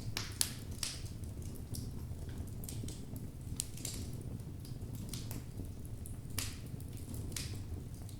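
Wood logs burning in a fireplace: irregular sharp crackles and pops, several a second, over a steady low rumble of the flames. The sharpest pops come about half a second in and again a little past six seconds.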